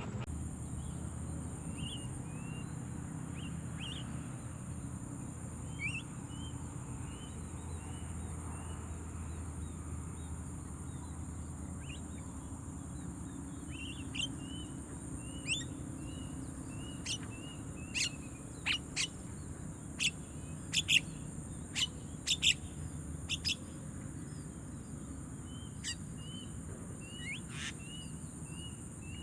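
Birds calling: a short chirp repeated about once a second, with sharper, louder calls coming in from about halfway through, over a steady high-pitched whine.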